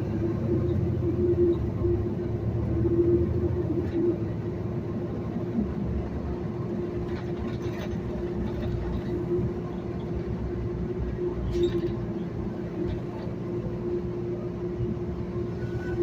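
City transit bus driving along, heard from inside the cabin: steady engine and road rumble with a constant drivetrain whine, the rumble heavier for the first few seconds and then easing.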